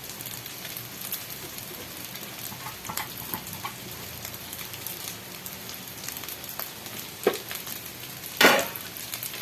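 Garlic fried rice sizzling steadily in a pan, with a few light clicks, a sharp knock about seven seconds in and a louder knock near the end.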